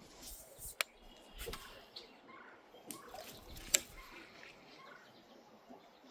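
A few sharp clicks and taps, the loudest a little before four seconds in, over quiet outdoor background with faint bird chirps.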